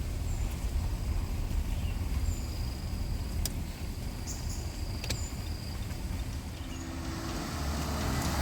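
Steady low rumble of a vehicle running, with two sharp clicks in the middle and a few faint high chirps; music begins near the end.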